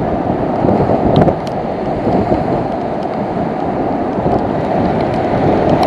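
Strong wind blasting across the microphone: a loud, continuous rumbling noise.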